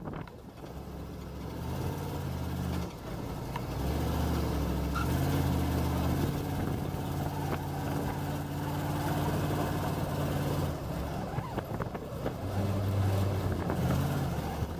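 Monster truck's small-block Chevy V8 running under way, its engine speed rising and dropping several times.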